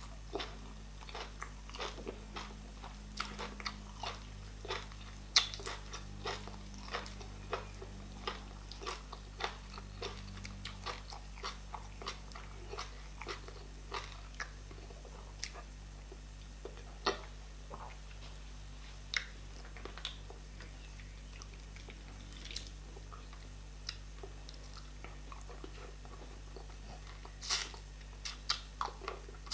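Close-miked wet chewing, lip smacking and mouth clicks of a person eating fufu (garri) with okra soup by hand. The clicks come thick and fast for the first dozen seconds, then thin out, with a cluster of louder ones near the end, over a faint steady low hum.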